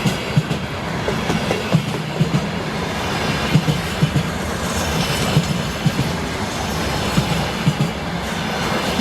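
Freight train wagons rolling past at speed, a steady rumble of wheels on rail with irregular clacking knocks, several a second, as the wheels cross rail joints.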